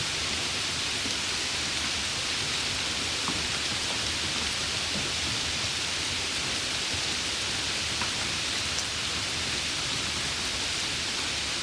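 Steady heavy rain, an even hiss of falling rain with a few faint drop ticks.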